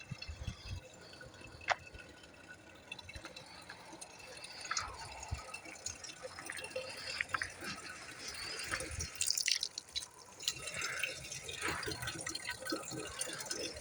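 Faint water dripping and trickling, with scattered small clicks at irregular times and one sharper click near the start.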